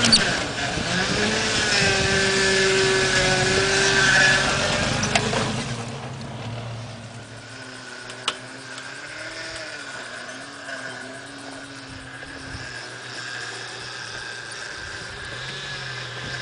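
Off-road 4x4 truck engine running under load. It is loud for the first five seconds or so, then drops to a quieter steady running with a slowly wavering pitch. A single sharp click comes about eight seconds in.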